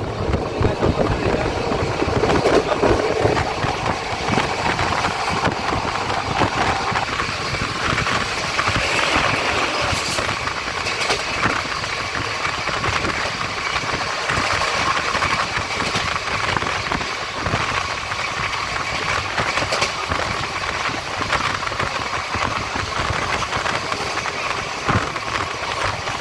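A passenger train running along the track, heard from on board: a steady running noise with a few brief clicks from the wheels over the rails.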